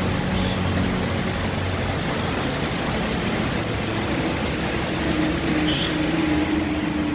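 Motorcycle riding through heavy rain: a steady rush of rain and wind noise over the low hum of the engine, with the engine note rising slightly in the second half.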